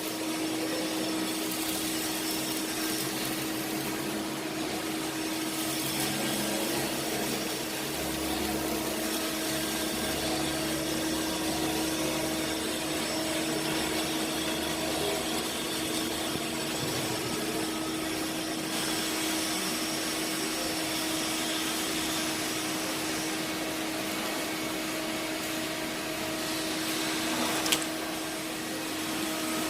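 Steady machine noise: a motor-driven whir with a constant hum, and one sharp click about two seconds before the end.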